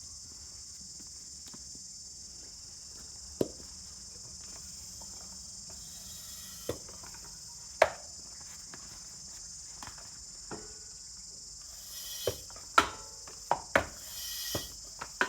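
Inner tube and bucket handled during a leak test: scattered sharp knocks and clicks, closer together with short noisy bursts near the end, over a steady high-pitched hum.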